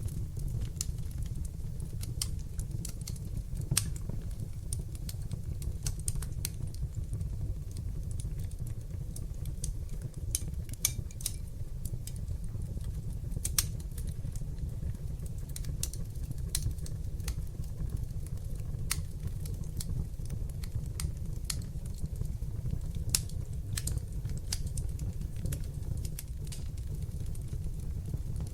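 Wood fire in a fireplace crackling: many irregular sharp pops and ticks, a few louder than the rest, over a steady low rumble.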